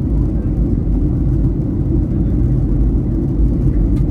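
Steady low rumble of in-flight cabin noise inside a Boeing 737-800: its CFM56-7B jet engines and the airflow along the fuselage, heard from an economy window seat.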